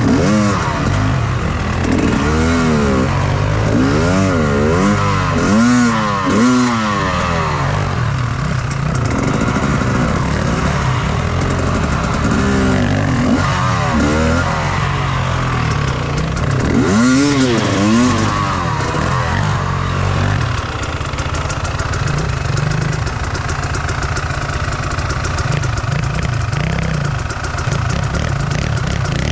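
Enduro motorcycle engine revving up and down again and again, its pitch rising and falling in quick swells about every second for the first twenty seconds, then settling into a steadier, lower run.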